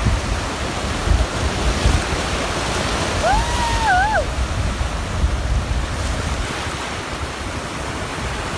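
Ocean surf washing steadily, with wind buffeting the microphone in low gusts. About three seconds in, a single pitched call of about a second rises, holds, dips and falls away.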